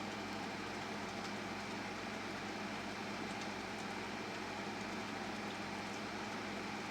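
Steady rushing noise of a storm's heavy rain and wind, with faint patters of drops, over a steady low hum.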